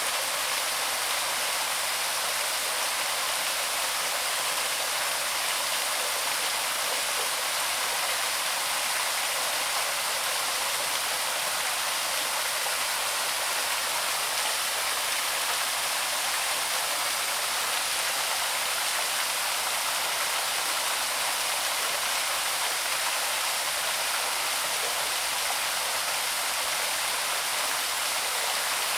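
Small waterfall splashing and rushing into a stream, a steady even sound of falling water with no pauses or breaks.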